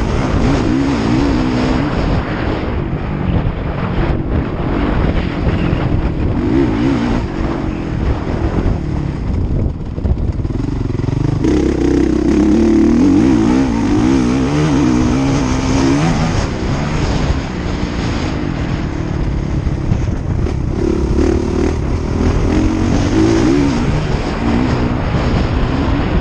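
Motocross bike engines revving up and down as they ride the track, the pitch rising and falling through throttle and gear changes, loudest a little before halfway through.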